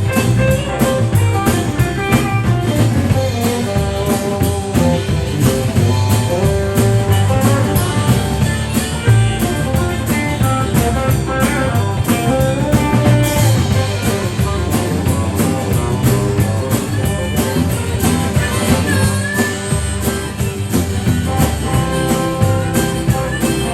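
A live band playing an instrumental break of a bluesy country song, led by guitar over a steady beat, with no singing.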